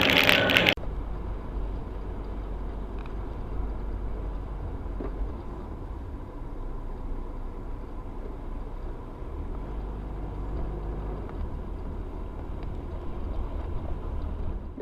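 Steady low rumble of a car on the move, as a dashcam picks it up, with a faint steady whine. It follows a loud, noisy burst that cuts off abruptly under a second in.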